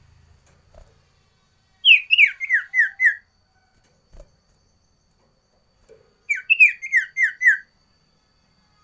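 Sirtu songbird singing two phrases, each a quick run of five or six sharp whistled notes, every note sliding down in pitch. The phrases come about four seconds apart.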